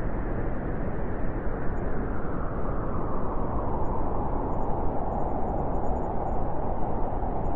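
Blizzard wind rushing and howling steadily, its howl settling lower and growing stronger after a few seconds.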